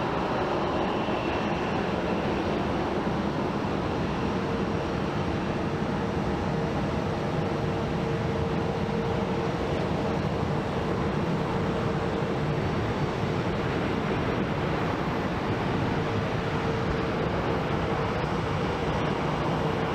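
Jet airliner engines at takeoff thrust during a departure roll: a steady rumble with a steady tone held through most of the middle.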